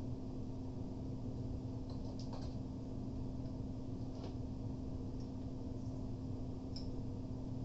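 A steady low hum with a few faint clicks about two, four and seven seconds in.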